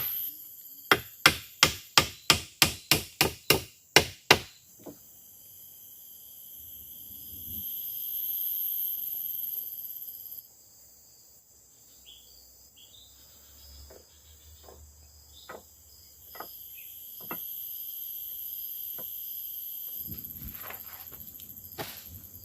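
About a dozen quick, evenly spaced blows of a tool on wood, about three a second, stopping about four seconds in. After that, forest insects buzz in steady high bands that fade and return, with scattered light taps and cracks.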